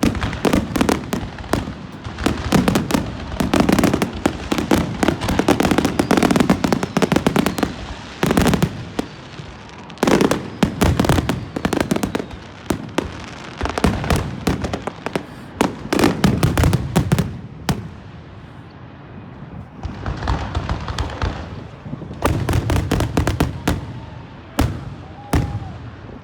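Aerial fireworks bursting in rapid volleys: many sharp bangs and crackles with a low rumble. There is a short lull about two thirds of the way through before more volleys.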